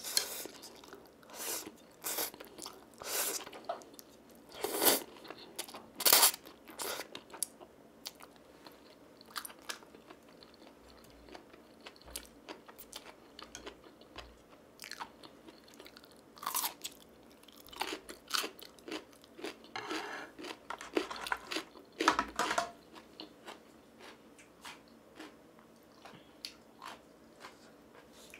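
Close-miked eating: mouthfuls of spicy instant stir-fried noodles chewed noisily, with wet smacks and crisp crunching bites that fit radish kimchi. The sounds come as irregular bursts separated by quieter pauses.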